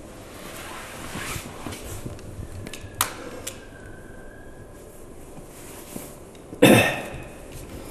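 A single sharp click about three seconds in, then a man's short, loud cough near the end.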